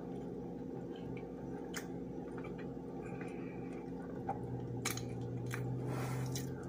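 A person chewing breakfast food with close, wet mouth sounds and scattered small clicks and smacks, over a steady low hum.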